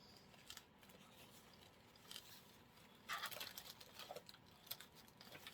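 Faint rustling and light clicks of small plastic artificial filler flowers being handled and pushed into a floral arrangement, with a louder rustle about three seconds in.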